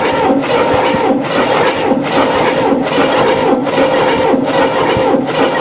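Cadillac 472 V8 being cranked over on its starter without firing, a steady starter whine with an even pulse about two and a half times a second. This is a compression test on cylinder 8, which builds to 160 psi.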